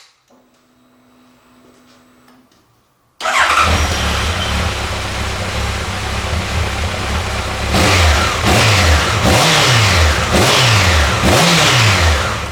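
Honda CB1100's air-cooled inline-four engine catches suddenly about three seconds in, after a faint start, and then runs at idle. In the last few seconds the throttle is blipped several times, each rev rising and falling quickly, through a slip-on exhaust.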